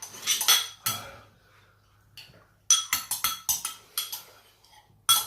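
Metal cutlery clinking and scraping against a bowl while the last of a curry is eaten: a quick run of clinks near the start, a faster run in the middle, and one loud clink near the end.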